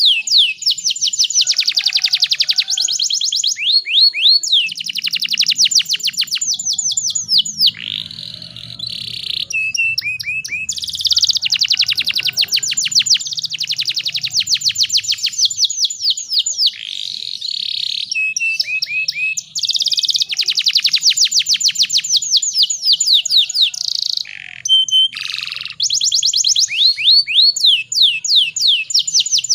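Domestic canary singing in long, rapid trills of repeated chirps, broken by short pauses and the occasional held note. This is a lure song meant to set other canaries singing.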